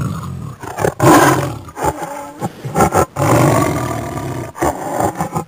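Lion roaring: several loud, rough calls in a row, broken by short pauses.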